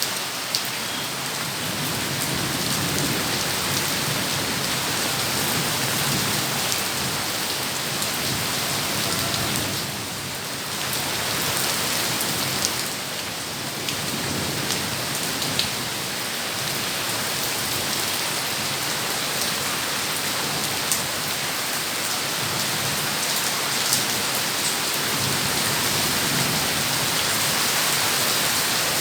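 Heavy rain pouring steadily, with a few sharper drop hits standing out now and then.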